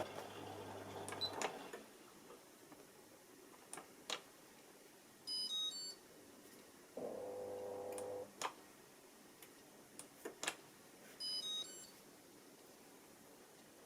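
AEG Lavamat washing machine's control panel being operated, leaving diagnostic mode: sharp clicks from the knob or buttons, and two short runs of electronic beeps. Between the beeps a machine hum sounds for about a second, and another hum dies away just after the start.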